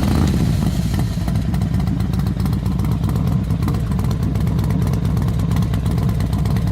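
Kawasaki 650 parallel-twin motorcycle engine running steadily at low revs, with no revving. The sound cuts in abruptly right at the start.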